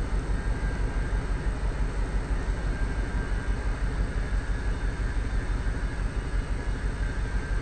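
1999 Ford Expedition's 4.6-litre V8 idling with a steady, uneven low rumble: a rough idle from a misfire on cylinder 5, the cylinder the scan tool's P0305 code points to.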